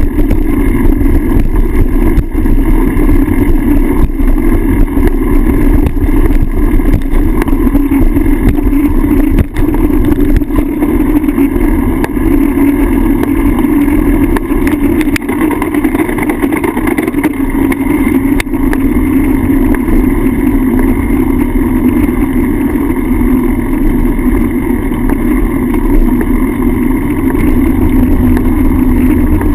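Wind and road rumble on a bicycle's handlebar-mounted GoPro while riding: a loud, steady, muffled roar with a few faint clicks.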